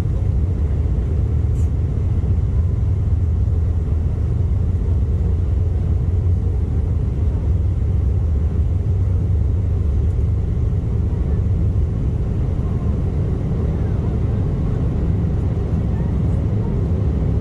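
Steady low rumble of an Embraer E175 airliner's cabin as heard from a passenger seat: the noise of its twin jet engines and the airframe, even and unbroken.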